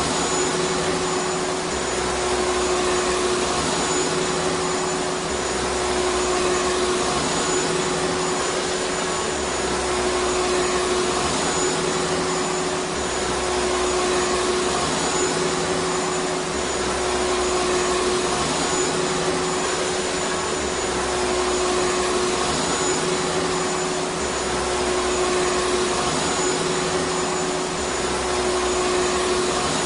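Vacuum cleaner running steadily: an even hiss of rushing air over a constant motor hum. A faint low pulsing repeats about every two seconds.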